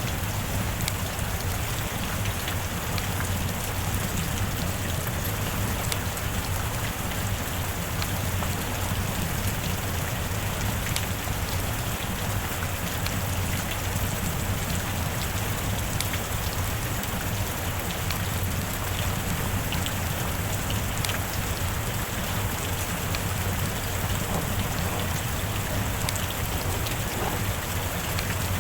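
Steady heavy rain pouring down, an even hiss peppered with many small drop ticks.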